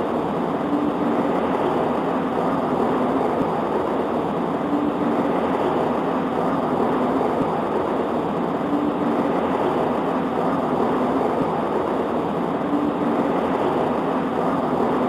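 Steady heavy rain heard through a window: a dense, low, even rush with no distinct drops or thunder, and a faint hum that comes back about every four seconds.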